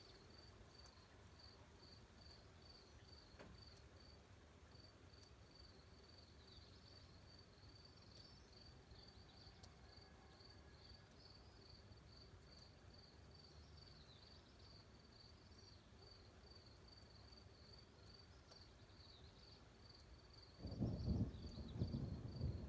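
Faint, steady cricket chirping at about three chirps a second. Near the end, a loud low rumble of thunder breaks in.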